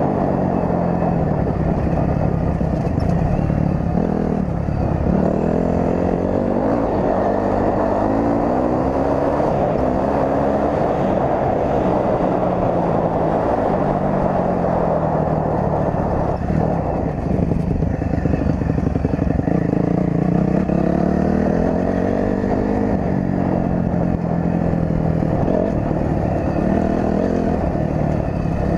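Four-stroke dirt bike engine under way, its pitch climbing and dropping again and again as it accelerates and eases off.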